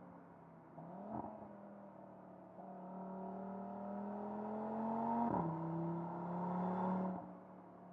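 Audi RS 3's 2.5 TFSI five-cylinder engine under acceleration. After a brief rise and fall in pitch about a second in, the note climbs steadily, drops sharply with an upshift about five seconds in, then runs steady and fades near the end.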